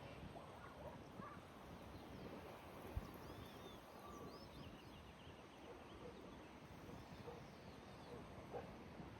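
Faint birdsong outdoors: scattered short chirps and a quick trill from small birds over a steady low background rumble, with one brief low thump about three seconds in.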